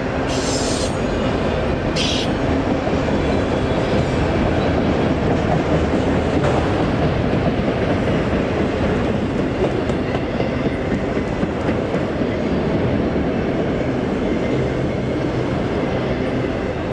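Freight train cars rolling past on jointed or welded rail, a steady loud rumble with wheel clatter. Two short high-pitched squeals come about half a second and two seconds in.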